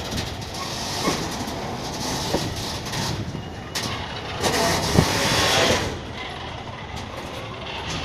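Train running slowly over a level crossing, a steady rumble with occasional thumps from the wheels over the rail joints, louder for a moment about halfway through.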